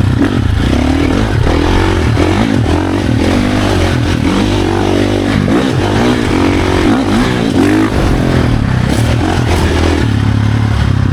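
Dirt bike engine revving up and falling back again and again under throttle while riding trails, with the bike's rattle and clatter over it. The revving settles into a steadier lower engine note for the last few seconds.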